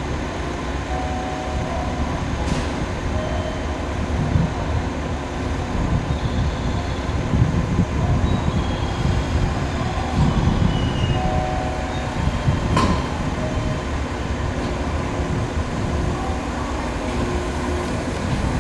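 JR 115 series electric train pulling out of a station: a steady low rumble of motors and wheels, with two sharp clicks, one a few seconds in and one about two-thirds of the way through.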